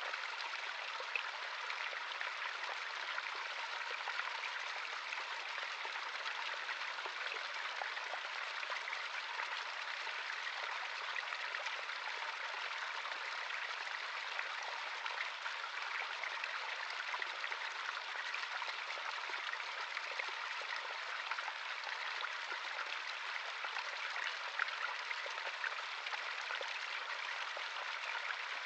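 Small stream running over rocks: a steady babbling and splashing of water with fine trickling detail.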